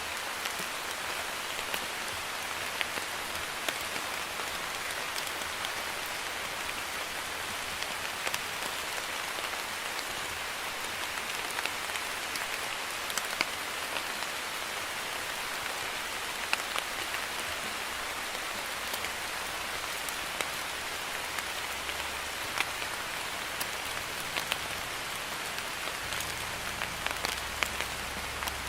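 Steady light rain (drizzle) falling on a surface, an even hiss with scattered sharp drop ticks.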